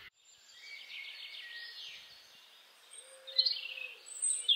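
Small birds chirping and trilling, with louder bursts of quick chirps about three seconds in and again near the end.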